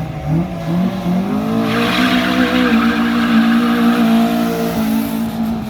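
A car engine revs up and is held at high revs while its driven tyres spin and squeal on the pavement in a wheelspin. The engine note climbs over the first second or so. The tyre noise joins a little under two seconds in, and both fade together near the end.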